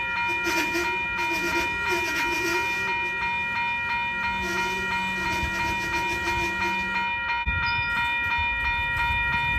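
Freight train rolling slowly past, with steady high ringing tones over the rumble of the cars; the rumble drops lower about seven and a half seconds in.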